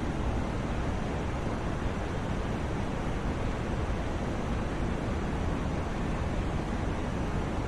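Continuous sleep white noise: a steady, even hiss with a deep low end, unchanging throughout.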